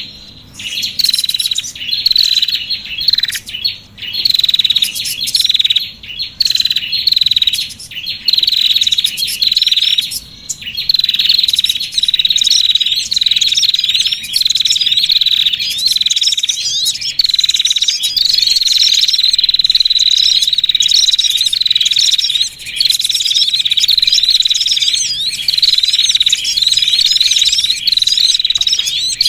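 Many small songbirds chattering at once, a dense run of high, thin, overlapping chirps and tweets with only brief gaps: a lure call recording meant to draw small birds in.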